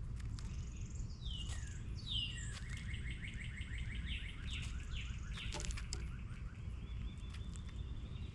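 Small songbirds calling and singing: two sharp down-slurred notes about one and two seconds in, then a fast trill of repeated notes lasting a few seconds, ending in a steady high note. Scattered sharp clicks and a steady low rumble run underneath.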